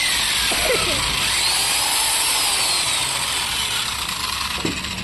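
Electric putty mixer's motor running at speed, a steady high hiss and whine, easing slightly in level near the end.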